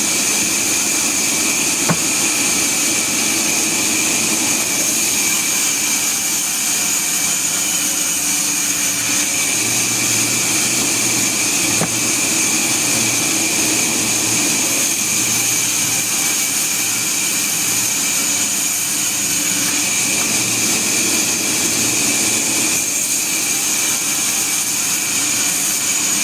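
Sawmill machinery running steadily, a continuous mechanical whine over a steady noise that does not change in pitch.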